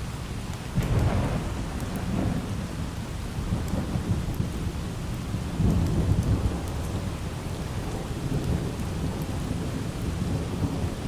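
Light rain falling steadily under rolling thunder: a crack and rumble about a second in, and another long rumble around the middle.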